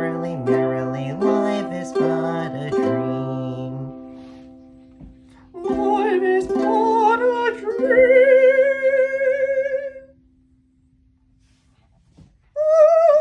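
Ukulele strumming with a moving bass line that fades out after about four seconds. Then a fresh strummed chord with a long sung note held with vibrato, ending the round. Near the end, after a short silence, a brief held sung note begins.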